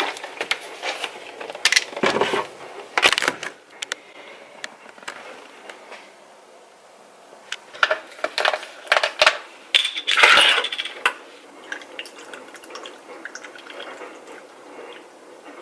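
Irregular clicks and clatters of small hard objects being handled, in scattered clusters, with the loudest clatter about ten seconds in.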